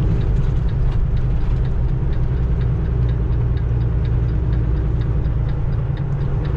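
Semi-truck diesel engine droning steadily under way, heard inside the cab, with a light, even ticking of about three ticks a second over it.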